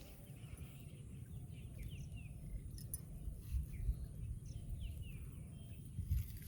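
Small birds chirping over and over with short falling notes, over a steady low rumble.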